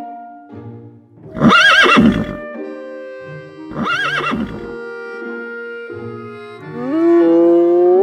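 Horse whinnying twice, each a loud, wavering call about a second long, over soft background music. Near the end a third call rises in pitch and is held.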